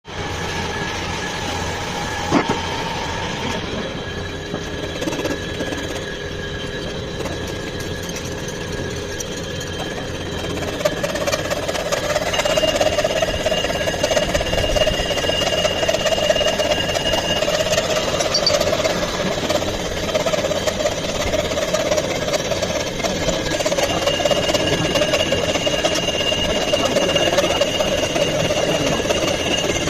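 Fexac UM universal milling machine running, with a steady gear whine and a single knock about two seconds in. The running grows louder about eleven seconds in, with a higher whine joining.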